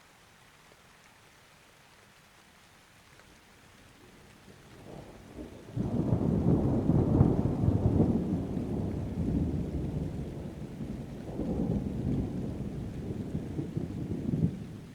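Thunderstorm: soft steady rain, then a rolling thunderclap that builds about a third of the way in, breaks in sharply and loud, and rumbles low with a second swell before dropping away at the end.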